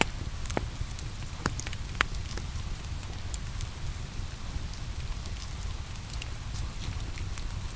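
Wood fire crackling in a fireplace, with a few sharp pops in the first two seconds, the loudest about two seconds in, and scattered small ticks, over a steady hiss of rain falling and a low rumble.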